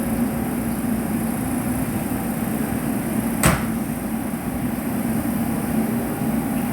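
Train at a station, running with a steady low hum, with a single sharp metallic clank about halfway through.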